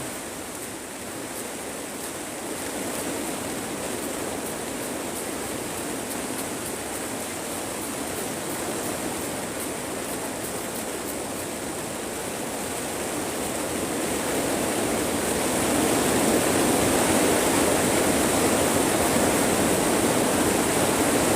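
Heavy rain falling on a greenhouse roof, heard from inside as a steady hiss that swells louder about two-thirds of the way through as the downpour picks up.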